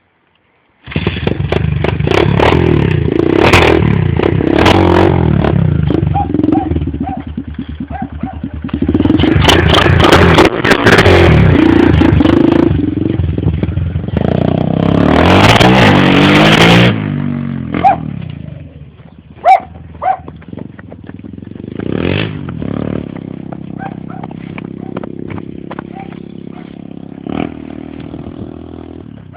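Pit bike engine run hard at full throttle, its pitch rising and falling repeatedly as it is revved through the gears, then dropping about seventeen seconds in to a quieter, steady running with a few sharp knocks.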